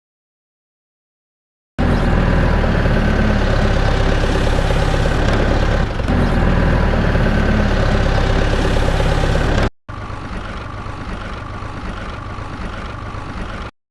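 Tractor engine running steadily, starting abruptly after a second or so of silence. It cuts out suddenly near the ten-second mark and comes straight back quieter.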